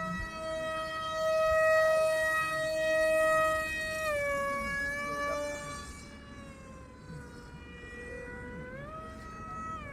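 Home-built model airplane's brushless electric motor and propeller running with a steady whine. Its pitch steps down about four seconds in, sags lower, then climbs back up near the end as the throttle changes.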